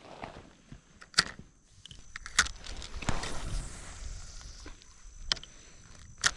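Four sharp clicks and knocks, with soft rustling in between, from fishing gear and paddle being handled in a kayak.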